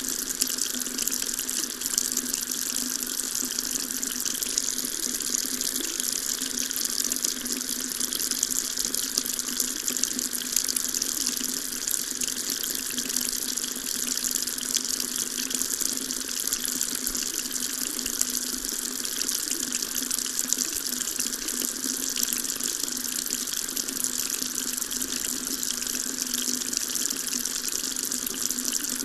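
Water tap running steadily, a continuous stream of water splashing with an even hiss.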